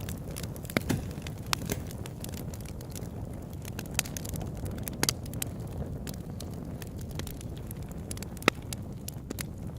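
Campfire crackling over a steady low rush, with scattered sharp pops from the burning wood; the loudest single pop comes near the end.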